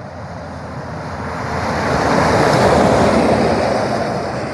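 An 18-wheeler semi-truck passing close by on the road, its rush of tyre and engine noise swelling to a peak about halfway through and then fading. It does not sound its horn.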